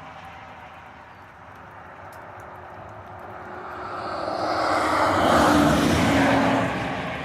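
A vehicle passing by: a steady rushing noise that swells from about halfway through, peaks, then fades near the end.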